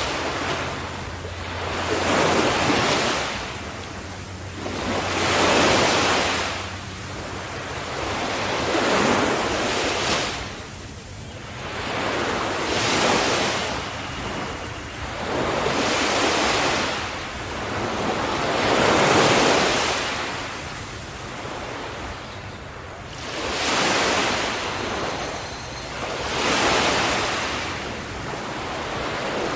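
Ocean waves breaking on the shore, one after another, each surge of surf swelling and washing back about every three to four seconds.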